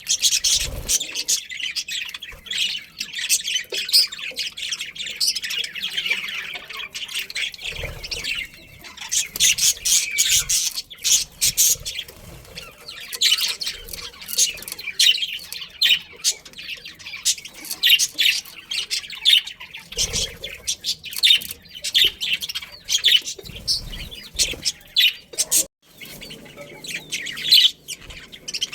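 Budgerigars chirping and chattering continuously, many rapid high warbles and squawks overlapping, with a few soft thumps.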